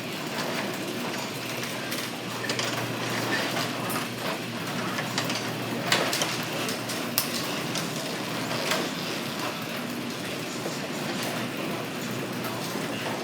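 Garage door opener running as the door travels: a steady mechanical rattle with scattered clicks.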